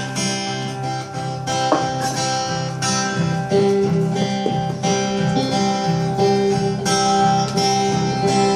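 Live acoustic guitar strumming and picking the instrumental intro of a folk song, growing slightly louder.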